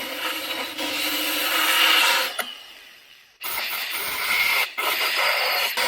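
Power grinder grinding car body sheet steel in two passes, its motor winding down in between and again near the end.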